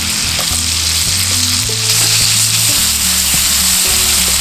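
Chicken thigh sizzling in hot oil and butter in a cast-iron skillet: a steady frying hiss.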